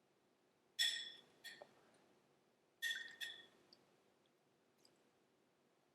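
A spoon clinking against a hard bowl or container while water is spooned into the food processor: four short ringing clinks in two pairs, about two seconds apart.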